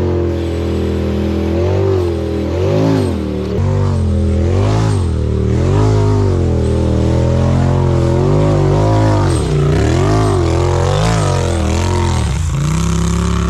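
Polaris RZR Pro XP side-by-side engine under way, revving up and down about once a second as the throttle is worked over rough trail. It settles to a steady, even drone near the end.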